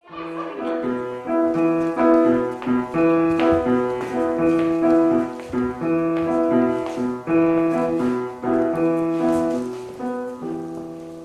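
Piano music: a sequence of chords that starts abruptly and fades out over the last few seconds.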